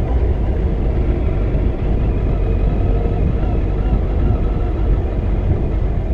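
Motorcycle engine running steadily under a dense, constant low rumble.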